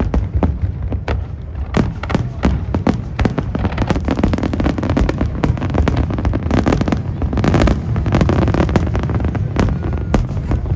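Aerial fireworks exploding in rapid succession: many sharp bangs over a continuous low rumble, with a dense stretch of crackling in the middle.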